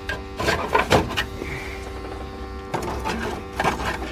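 A steady mechanical hum of several fixed pitches over a low rumble, broken by scattered knocks and clatter, most of them about half a second to a second and a quarter in and again near the end.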